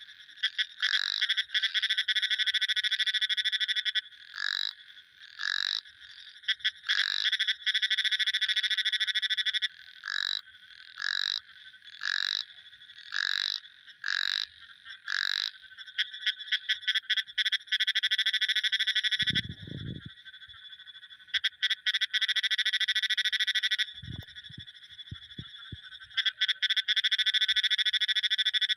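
A chorus of frogs calling: long, rapid buzzing trills that run for a few seconds at a time, interleaved with short falling croaks repeated about once a second. Two brief low thuds come in the second half.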